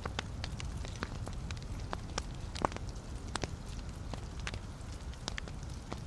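Wood fire burning in a fireplace with a steady low rumble and irregular crackles and pops of the burning logs, a couple of them louder about a third and halfway in.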